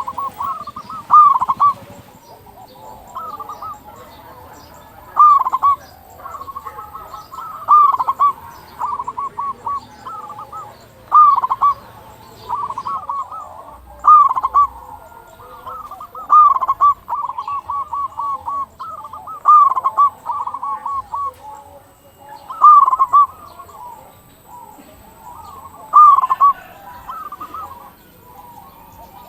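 Zebra dove (local perkutut) cooing: repeated phrases of short notes, a loud phrase about every three seconds with softer calls in between.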